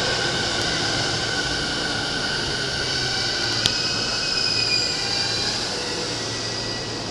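A Yokosuka Line E217 series electric train at the platform, with a steady low hum and several high whining tones, one shifting in pitch partway through. A single sharp click sounds about halfway.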